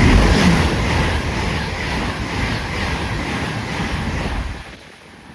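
High-speed GWR train passing through the station at speed without stopping: a loud rush of wheel and air noise, loudest at the start, that drops away sharply about four and a half seconds in as the train clears the platform.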